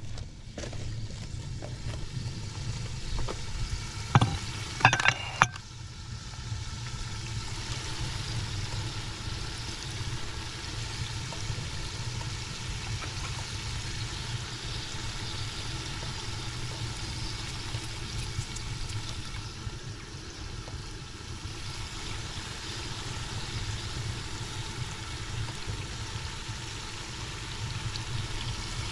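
Food frying in hot oil in a cooking pot, a steady sizzle. About four to five seconds in come a few sharp metal knocks that ring briefly.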